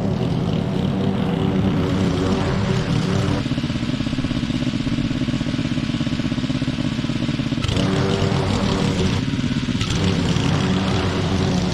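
Small petrol engine of garden equipment running steadily under the operator's hands, its tone shifting to a different pattern from about three to eight seconds in and then back.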